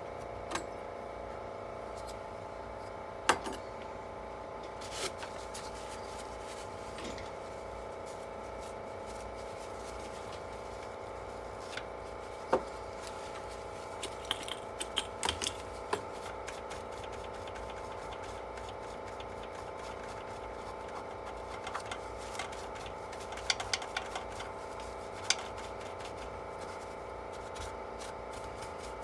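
Scattered light clicks and taps of small parts and tools being handled while a desktop PC is worked on, over a steady hum; the clicks come in quick clusters about halfway through and again near the end.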